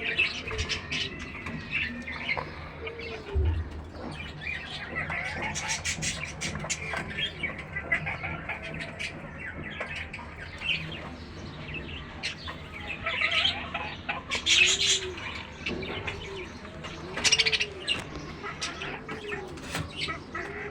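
A mix of pet birds calling: repeated low rising-and-falling coos, coming more often in the second half, among many short chirps and scratchy noises.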